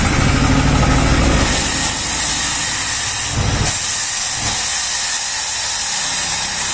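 Compressed air hissing steadily from an air gun blowing out a motorcycle's gas pipe, starting about a second and a half in. A low mechanical rumble comes before the hiss and fades.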